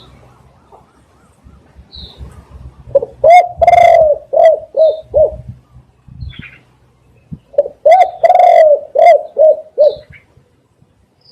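Spotted dove cooing: two phrases of several low coos each, one about three seconds in and one near the end, each with one longer drawn-out note among the shorter ones.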